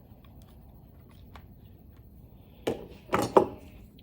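Small parts being handled, with a few light clicks, then a sharp knock and two louder knocks in quick succession near the end.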